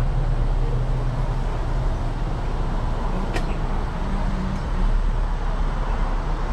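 Car engine running with a steady low rumble, and a single sharp click about three seconds in.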